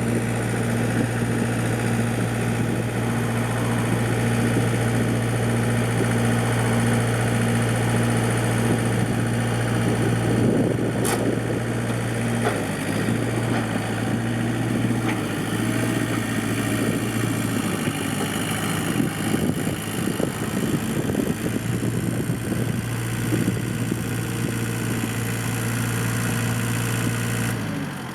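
Daedong compact tractor's diesel engine running steadily, its note dipping briefly a few times in the middle as the revs or load change.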